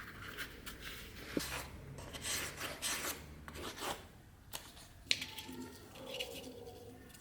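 Scraping strokes of hand work on a workpiece, with a sharp click about a second and a half in and another about five seconds in.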